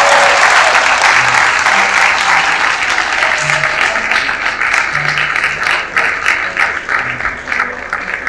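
Audience applauding, the applause fading and thinning near the end into scattered separate claps.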